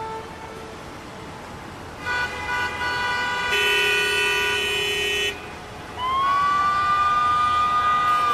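Street traffic: car horns honking from about two seconds in, one louder horn held for a couple of seconds, then a siren rising about six seconds in and holding its pitch.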